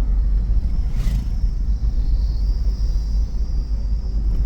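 Steady low rumble of a Suzuki Jimny on the move, its engine and road noise heard from on board. A faint high-pitched hum joins about two seconds in.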